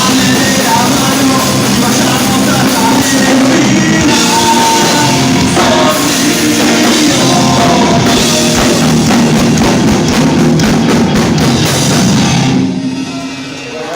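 Live rock band playing loud, with a pounding drum kit and guitars; near the end the full band drops away and the sound thins out.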